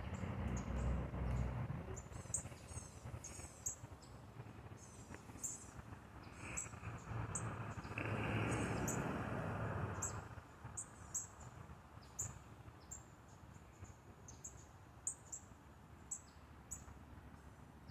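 Small bird chirping, many short high chirps repeated throughout, over a soft outdoor background, with a rushing noise that swells and fades around the middle.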